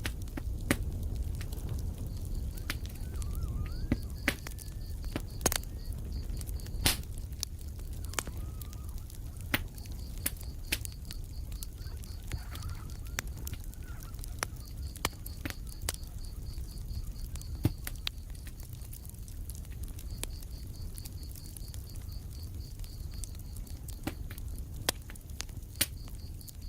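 Wood fire crackling, with frequent sharp pops over the low rumble of the flames. A cricket chirps in rapid pulses in several long stretches, and a few faint wavering calls come in during the first half.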